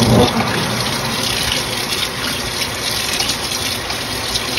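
Water pouring steadily into the tub of a Panasonic NA-FA80H8 top-loading washing machine as it fills at the start of its cycle.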